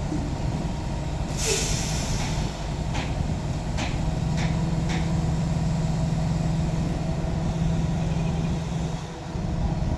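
Container truck's diesel engine running steadily. About a second and a half in comes a short hiss of air, then a few sharp clicks.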